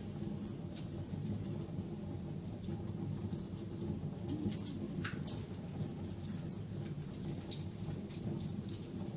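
Wood fire burning in an outdoor fireplace: a steady low rumble with irregular sharp crackles and pops, one louder pop about five seconds in.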